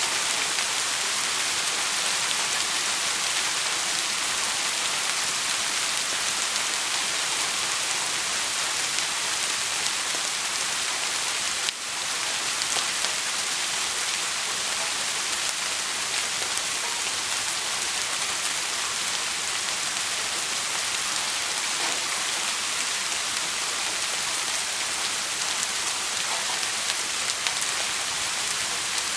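Steady rain falling and pattering on a surface, an even hiss with no thunder, with a brief dip in level about twelve seconds in.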